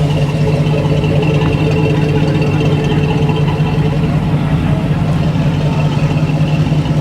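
An engine idling steadily, with an even low hum and no change in speed.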